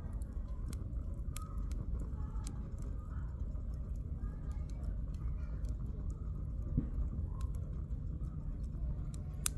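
Wood campfire burning, with scattered sharp crackles and pops over a low steady rumble. There is a louder pop near the end.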